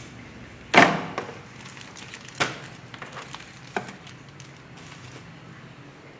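A few separate knocks and clicks of hard objects being handled, the loudest about a second in, with smaller ticks between; no drill motor running.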